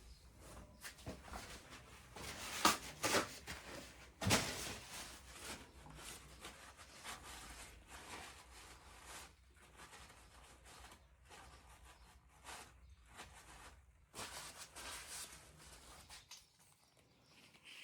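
Hand tools and metal engine parts being handled while working on a VW T5 engine: irregular clicks, scrapes and knocks, the loudest two sharp knocks a little under 3 seconds and about 4 seconds in, over a faint low hum.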